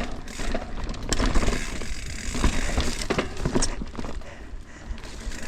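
Mountain bike riding over rocky trail: the rear freehub clicks as it coasts, with irregular knocks and rattles from the tyres and frame hitting rocks and roots.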